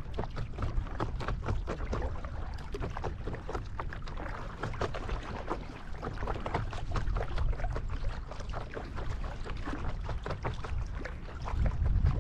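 Water splashing and lapping around a paddle craft on a river, with wind rumbling on the microphone. The wind rumble grows louder near the end.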